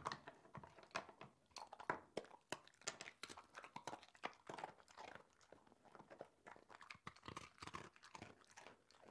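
A puppy gnawing on a plastic chew toy: irregular crunching and clicking bites, several a second.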